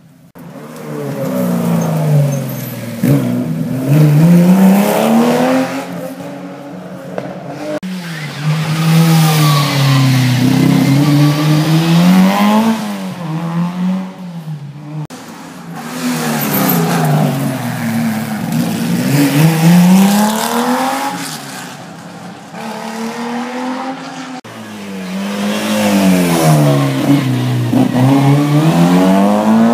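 Rally car engines at full throttle, the pitch climbing and falling again and again as the cars accelerate, shift gear and brake for corners, over several passes joined by cuts. Loud throughout.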